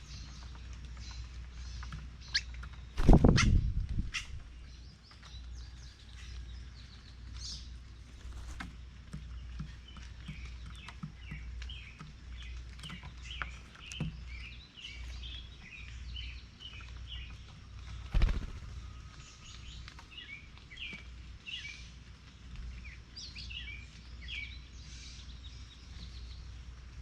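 Small songbirds chirping at a feeder, with short calls and runs of quick repeated notes. Two loud thumps break in, one about three seconds in, the louder, and another later.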